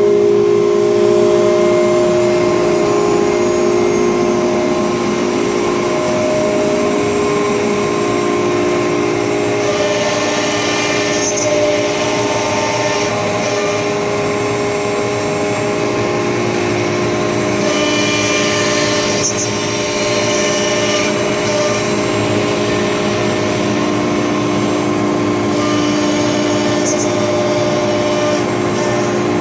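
Acctek ATC CNC router running, its spindle giving a steady whine. Three times, about 10, 18 and 26 seconds in, a louder hiss joins it for a few seconds.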